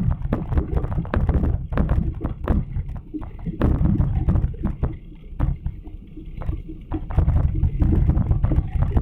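Wind buffeting the microphone of a camera on a moving bicycle: a loud, uneven low rumble with frequent small knocks and rattles.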